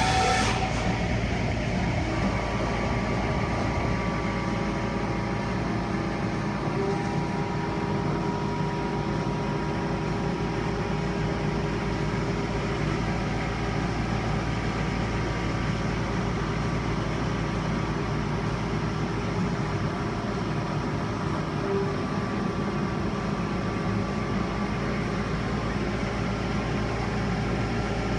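Haas VF-2SS CNC vertical machining centre running steadily while machining S355 steel, a constant machine hum made of several steady tones over a noise.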